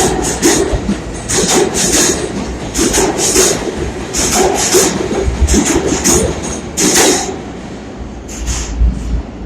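New York City subway train running into the station, its wheels clattering over the rail joints in a run of loud clacks over a steady rumble. The sound eases off after about seven seconds.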